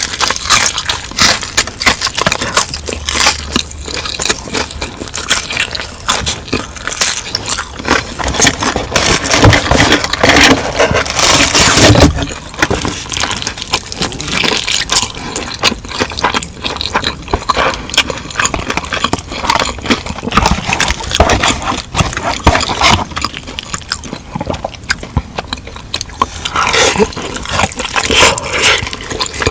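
Close-miked eating: biting and chewing, with dense, irregular clicking mouth and food sounds.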